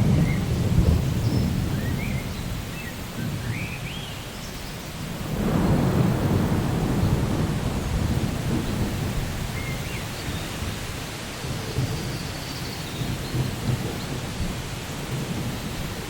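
Steady rain with rolling thunder: a low rumble at the start, then a second roll building about five and a half seconds in and slowly fading.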